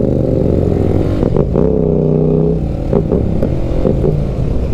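Benelli BN 125 single-cylinder motorcycle engine running on the road, its note rising and falling as the throttle changes, steady for about a second in the middle.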